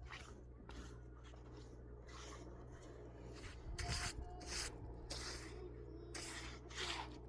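Repeated short scraping strokes, a few a second, of something rubbing over a rough surface, louder and more widely spaced from about halfway through, over a steady low hum.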